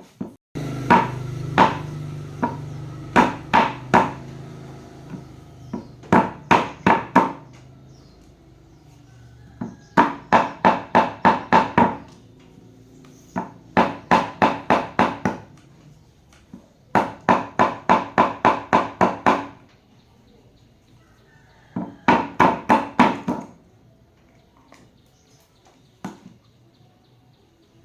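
Hammer tapping on metal in quick runs of four to ten blows, about four or five a second, with short pauses between runs; each blow rings.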